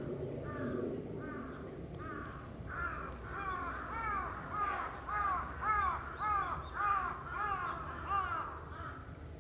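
A crow cawing in a rapid series of about a dozen caws, each rising and falling in pitch, loudest in the middle and fading near the end.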